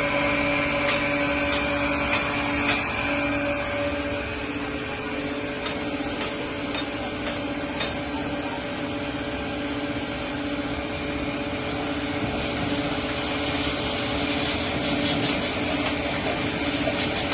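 An electric power tool's motor running steadily with a constant hum, with runs of sharp ticks about twice a second.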